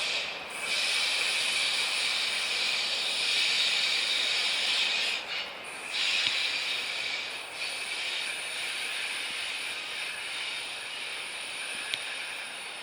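Passing train's wheels squealing on the rails: a steady, high-pitched screech. It swells about a second in, dips briefly around five seconds in, and then carries on more faintly.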